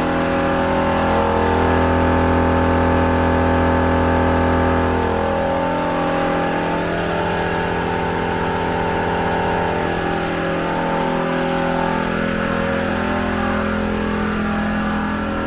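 12-volt air compressor running steadily while inflating the vehicle's tires through the Morrflate multi-tire hookup, a dense mechanical hum with several held tones that shift slightly in pitch.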